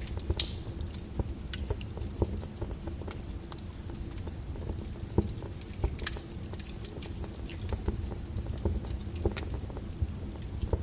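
Wood fire burning in a fireplace: a low steady rush of flame with frequent small crackles and pops of burning logs. Sharper pops come about half a second in and again around six seconds in.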